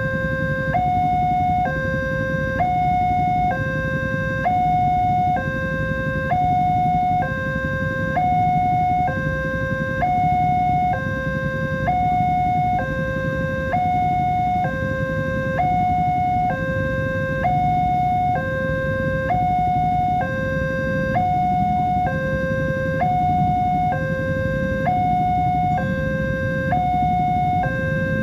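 Electronic warning alarm of a railway level crossing sounding continuously, alternating evenly between two tones, each held about half a second. A steady low rumble runs underneath.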